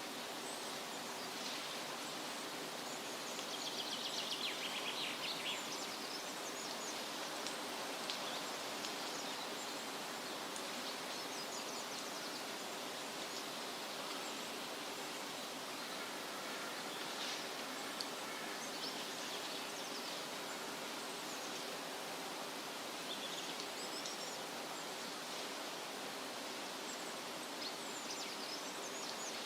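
Steady rustle of wind through leafy trees, with small birds chirping here and there above it, a quick run of chirps a few seconds in.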